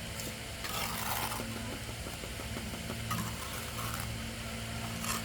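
A steady low mechanical hum, with brief scraping or rustling noises about a second in, around three seconds in and again near the end.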